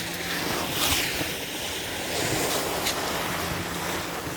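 Wind rushing over the microphone on an open four-seat chairlift, swelling and easing in gusts, with a faint steady hum underneath.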